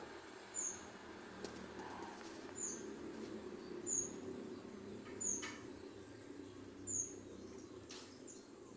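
A bird giving short high chirps, six in all, about one to two seconds apart, faint over a low steady background hum.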